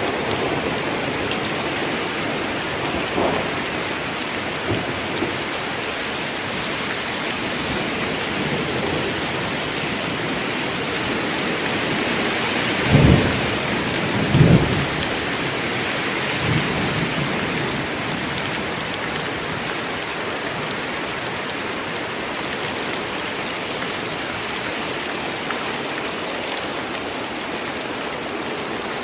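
Steady rain, with two short, low thunder rumbles about halfway through.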